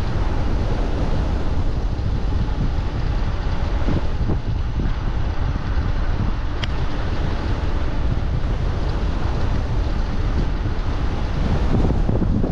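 Wind buffeting the microphone of a moving e-bike, a steady low rumble, with a single sharp click about halfway through.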